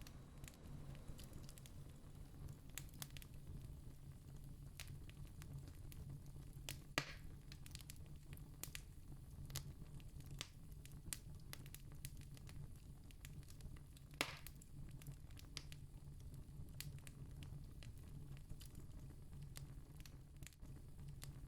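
Campfire crackling: a steady scatter of small snaps, with two louder pops about a third and two thirds of the way through, over a low steady rumble.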